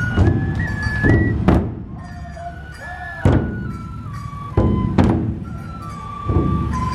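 Festival drum-procession music: large dō drums struck heavily every second or so, with a high bamboo flute playing a stepping melody over them.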